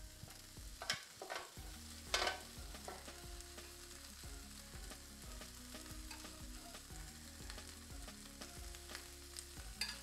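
Chicken, sausage and bacon pieces frying in a pan: a quiet, steady sizzle, with a few sharp clicks and knocks in the first three seconds.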